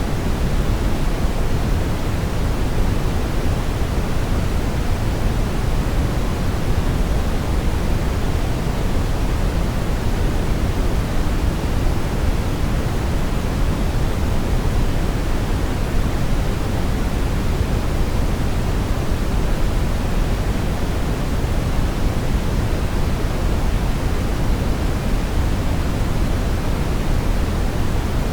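Steady brown noise: an even, unchanging rushing hiss, heaviest in the low end and fading toward the highs.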